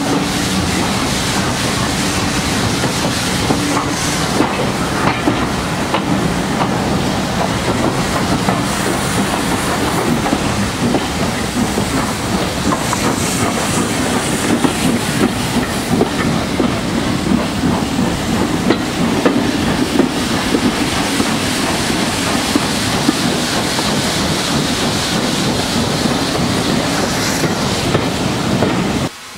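A steam train running on the rails, its wheels clicking over the rail joints with a steady hiss of steam. The sound is loud and continuous, then cuts off suddenly near the end.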